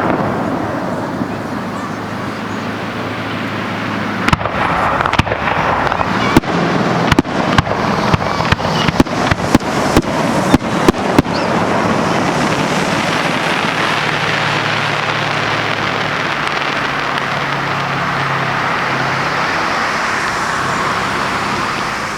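Fireworks going off in a quick string of sharp bangs, about a dozen and a half from roughly four to eleven seconds in, then stopping. Under them and after, a steady hubbub of crowd voices.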